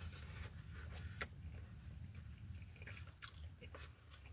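A person chewing a mouthful of lobster roll with the mouth closed, with a few sharp clicks scattered through the chewing over a low steady hum.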